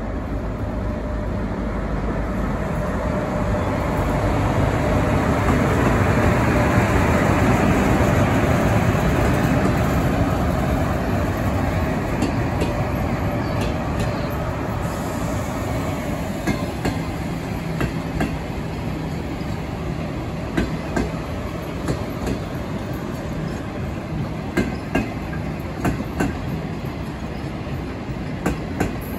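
Train running past on the tracks: a steady rumble that swells to its loudest about a third of the way through, then eases, with the wheels clicking over rail joints through the second half.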